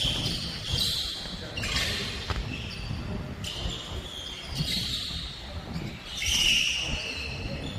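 Basketball game on an indoor court: a ball bouncing and sneakers squeaking on the floor, several squeaks coming in short bursts, the loudest about six and a half seconds in.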